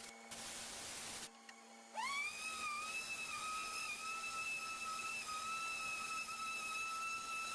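Electric power tool spinning a paint-stripping pad. There is a short burst of hissing, scraping noise, then about two seconds in the motor whine rises quickly and holds steady and high over a hiss.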